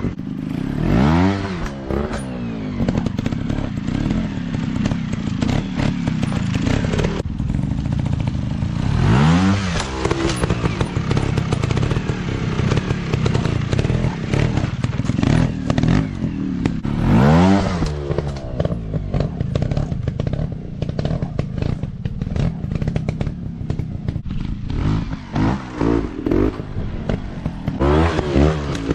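Off-road dirt bike engines running and revving, their pitch rising and falling again and again as the throttle is opened and closed, with strong sweeps about a second in, around nine and seventeen seconds, and near the end.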